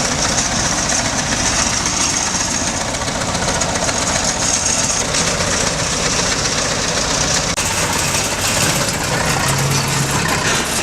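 Heavy construction machine's engine running steadily, with a continuous low hum and a hissing top.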